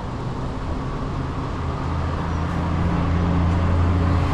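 A boat engine running steadily with a low hum, getting a little louder from about halfway through.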